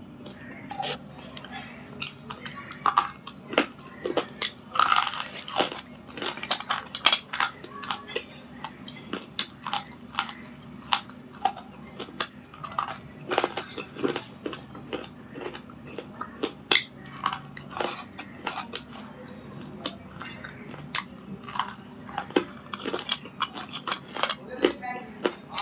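Biting and chewing of dry grey clay and slate pencil: irregular sharp crunches, several a second at times, with louder bites between about 3 and 8 seconds in.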